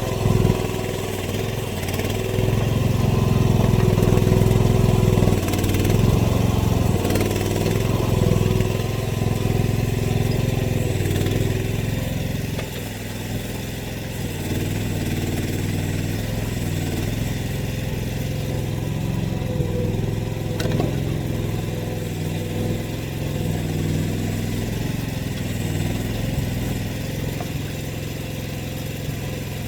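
Small diesel-type engine of an AGT mini excavator running steadily, pulling harder and louder for the first ten seconds or so, then settling to a steadier, slightly quieter run.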